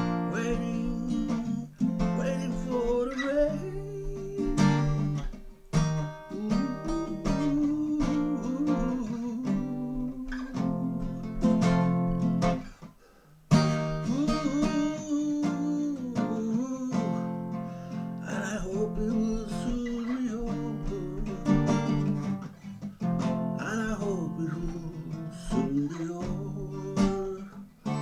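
Strummed acoustic guitar playing a slow song, with a gliding melody line over the chords and a brief pause about halfway through.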